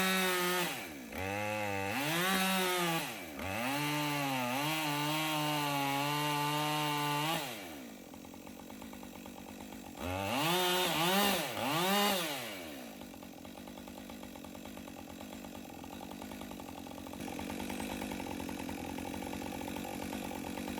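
Two-stroke chainsaw revving up and down several times and held at high revs for about four seconds. It drops back to idle, revs twice more, then settles to a quieter steady idle.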